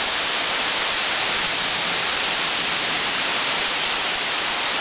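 Heavy thunderstorm rain pouring steadily, an even, unbroken hiss with no thunder.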